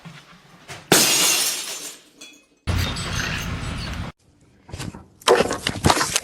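A sudden loud crash about a second in, fading away over about a second, then a burst of sharp knocks and clattering near the end.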